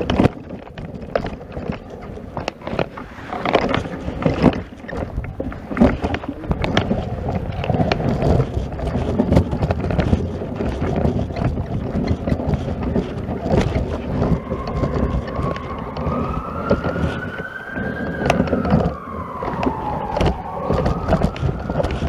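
An emergency-vehicle siren wails, rising and falling, starting about two-thirds of the way in, over a rough, uneven scuffing and crunching noise close to the microphone.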